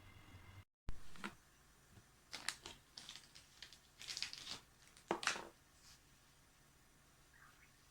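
Crinkling and rustling of something being handled, in a run of short bursts, loudest about a second in and again a little after five seconds.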